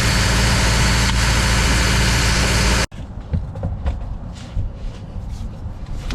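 Diesel engine of a Doosan 7/71 portable rotary-screw compressor running steadily, then cutting off abruptly about halfway through. After it, quieter scattered clicks and knocks.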